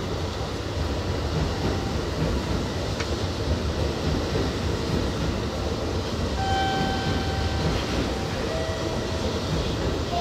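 Kintetsu electric train running at speed, heard from inside: a steady rumble of wheels on rail. A steady whine joins about six seconds in and steps down in pitch near the end.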